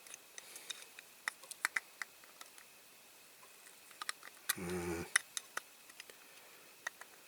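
Scattered small, sharp clicks and ticks of pliers gripping and twisting the metal hinge pins of a diecast toy van's door. A short murmured hum from the person working about halfway through.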